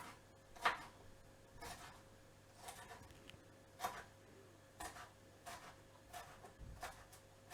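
Light taps and knocks of kitchen food preparation, about one a second and unevenly spaced, over a faint steady hum.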